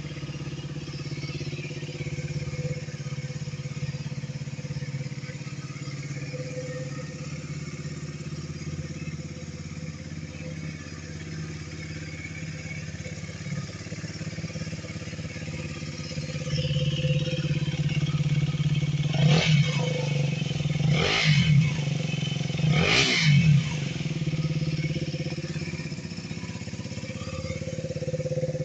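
KTM 250 Duke's single-cylinder engine, fitted with an aftermarket exhaust muffler, idling steadily. About two-thirds of the way in it is blipped three times in quick succession, each rev rising and falling sharply, then it drops back to idle.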